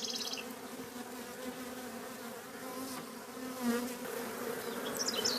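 Honey bees buzzing steadily around an opened hive in a roof.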